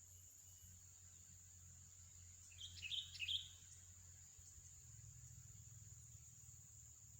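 A bird gives a short burst of a few quick chirps about two and a half seconds in, over a faint steady high-pitched drone.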